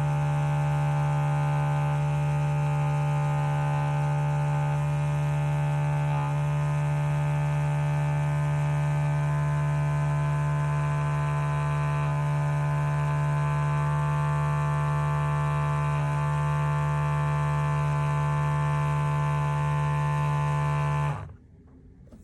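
Small electric pump of a portable espresso machine running with a steady buzzing hum at one unchanging pitch, cutting off abruptly near the end.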